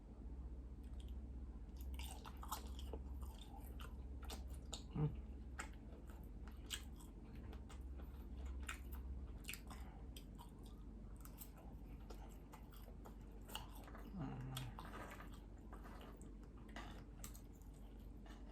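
Close-up chewing with many small wet mouth clicks and smacks, as someone eats a meal of breakfast meats, with one louder knock about five seconds in.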